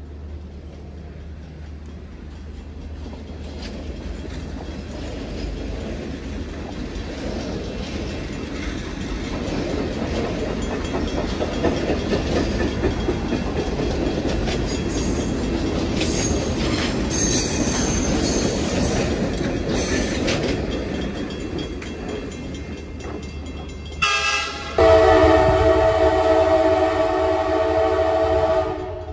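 Passenger cars of a train rolling past, wheel and rail noise swelling and then fading. About 24 seconds in, a locomotive's air horn gives a short toot and then a long chord blast that cuts off suddenly.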